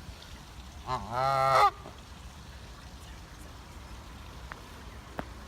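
A goose giving one loud honk about a second in, held for most of a second before it stops abruptly.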